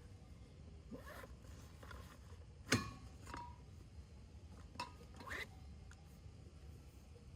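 Camp cookware and utensils being handled: one sharp clink about three seconds in that rings briefly, then a softer ringing knock, a further click and some handling noise.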